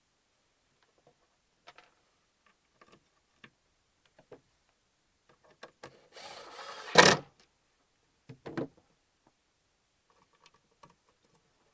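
Woodworking: light knocks and clicks of wooden pieces and tools being handled, with a short burst of a power tool, likely a drill, about six seconds in that ends in a sharp knock, the loudest sound. A few more wooden knocks follow.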